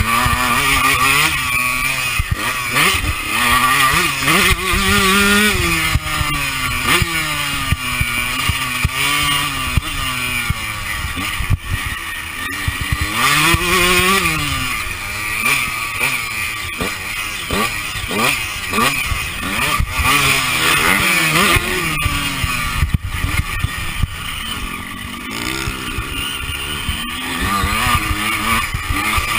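Honda CR125 motocross bike's 125cc two-stroke single-cylinder engine ridden hard, its pitch climbing and dropping again and again as the throttle opens and closes through the gears, heard from a camera on the rider's chest. Occasional sharp knocks come from the bike over the rough track.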